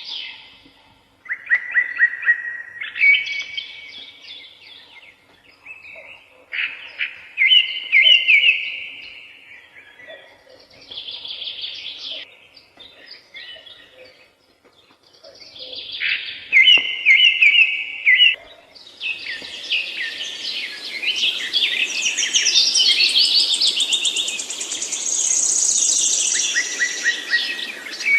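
Songbirds singing in short repeated phrases with brief pauses between them. About two-thirds of the way through, several birds sing at once, including a higher, faster trill, over a steady background hiss.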